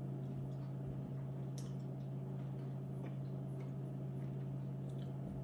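A few faint mouth clicks of someone chewing a sugar-coated candy, over a steady low hum.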